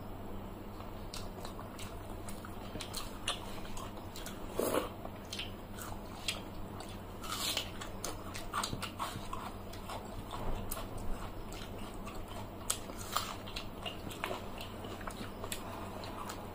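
Close-up eating sounds: people chewing and biting into fried fish and watered rice by hand, with irregular crunches and wet mouth clicks at uneven intervals. A faint steady low hum runs underneath.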